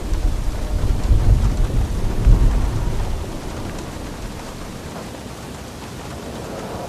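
Thunder rumbling over steady rain. The deep rumble builds about a second in, peaks a little past two seconds and dies away by about four seconds, leaving the rain's even hiss.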